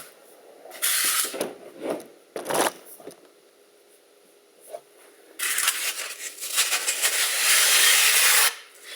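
Cut foam block pieces being handled: short scrapes, then about three seconds of foam rubbing and scraping against foam as the pieces are slid apart.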